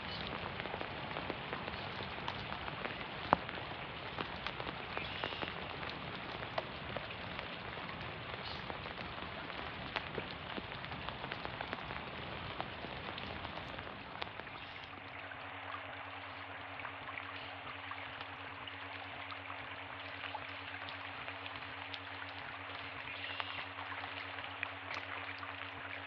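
Steady rain falling through the trees and onto a pond, with many single drops ticking close by.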